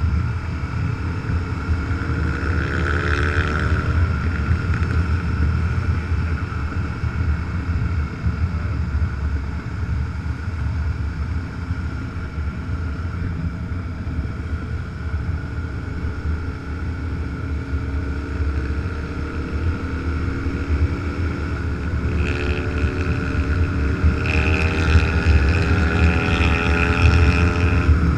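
Motorcycle engine running at road speed with wind rushing past the microphone. The engine note rises as the bike accelerates near the start and again over the last several seconds.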